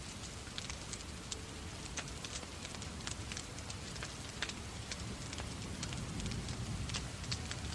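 Wood fire in a fireplace crackling, with irregular sharp pops several times a second, over a steady hiss of falling rain. A low rumble swells up and fades back in the last couple of seconds.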